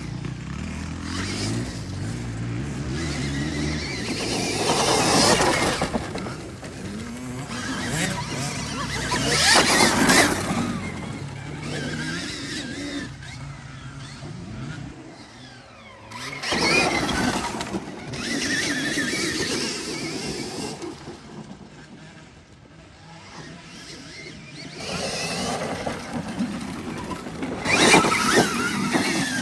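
Stark Varg electric dirt bikes being ridden: a motor whine that rises and falls in pitch with the throttle, along with tyre and dirt noise, swelling several times as bikes pass and fading between.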